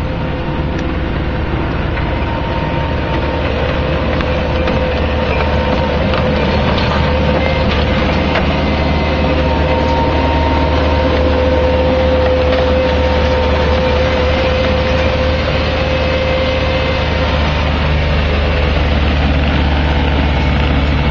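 Bobcat skid-steer loader running steadily, a low engine drone with a steady hydraulic whine, mixed with a continuous crackling and snapping of debris.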